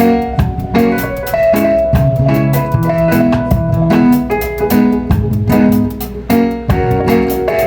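Instrumental band jam: a drum kit keeping a steady cymbal beat under keyboard chords and melody.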